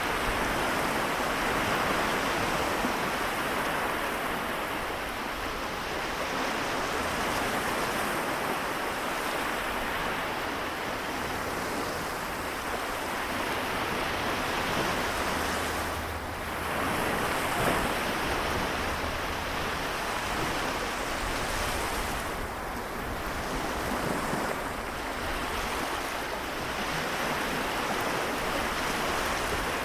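Small sea waves washing onto the shore, a continuous wash of surf that swells and eases every few seconds.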